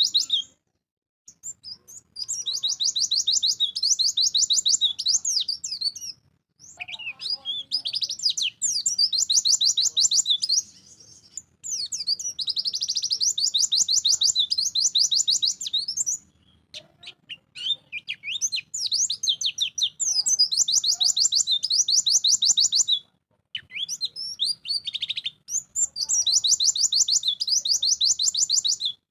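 White-eye (pleci) singing: long phrases of very rapid, high-pitched twittering, about five of them, each a few seconds long and separated by brief pauses.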